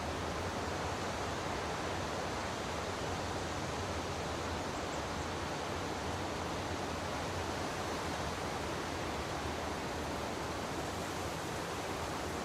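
Steady, even rushing noise that does not change from start to end, with no distinct events in it.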